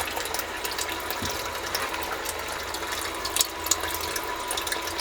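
Sump pump running steadily, a constant hum with water churning and splashing as it pumps out groundwater, with scattered small clicks and a couple of brief knocks over it. It is running near-constantly because groundwater keeps seeping in after heavy rain.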